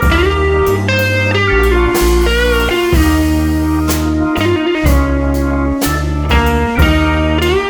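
Loud music played through a carnival sound system: a sliding, guitar-like lead melody over heavy bass notes and a steady beat.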